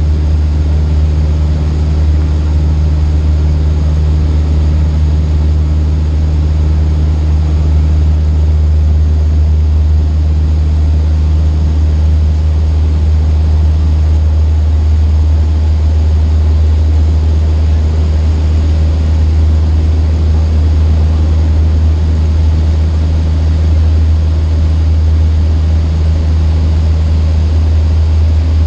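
Cessna 152's four-cylinder Lycoming engine and propeller droning steadily in flight, a constant low hum with no change in power.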